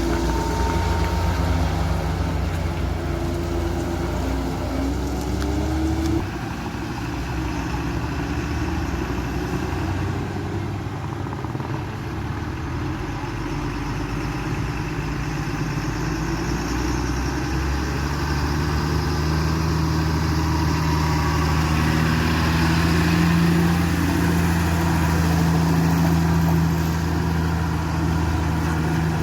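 Truck engine running, dropping in level and pitch about six seconds in, then rising gradually and working harder through the second half.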